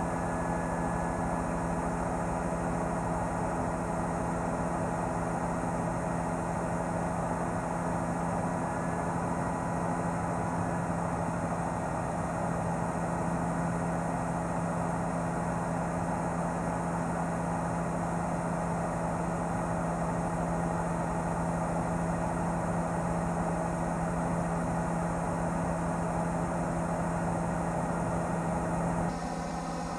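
Steady drone of a news helicopter's engine and rotors heard from on board, a constant hum with several fixed tones over a rushing noise. The tone pattern changes abruptly near the end.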